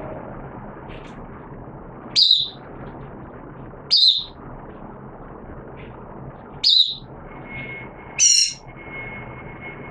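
Caged white-eye (mata puteh) giving short, sharp, high-pitched chirps, four times about two seconds apart. A faint steady high whine comes in about seven seconds in.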